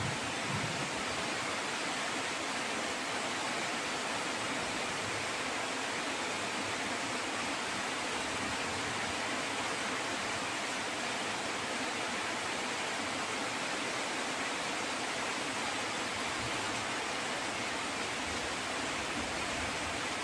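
Steady rain falling, an even hiss with no breaks, and a brief low rumble at the very start.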